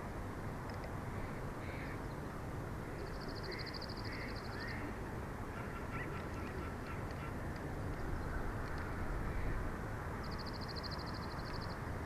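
Steady wind rushing on the microphone, with a fast high trill from a bird twice, each lasting about a second and a half, and a few fainter calls between.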